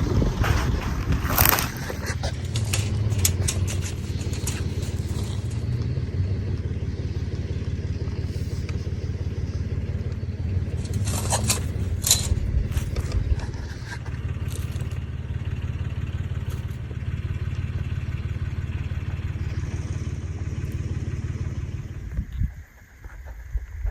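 A small engine running steadily at one constant speed, with a few sharp knocks and scrapes over it. It cuts off near the end.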